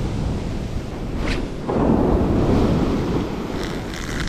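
Ocean surf washing up the beach, with a wave surging in about two seconds in, under a low rumble of wind on the microphone.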